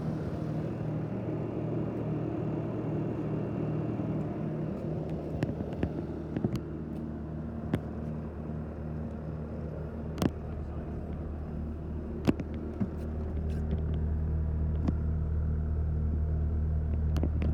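Bobcat T590 tracked skid steer's diesel engine running steadily, with a few sharp knocks or clicks along the way; the low engine hum grows louder about two-thirds of the way through.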